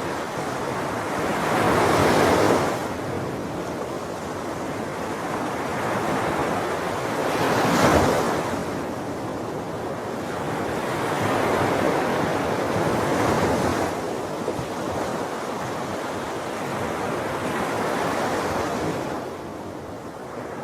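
Sea waves breaking on the shore in a steady wash, swelling into louder surges every few seconds and falling back between them, with the sharpest break about eight seconds in.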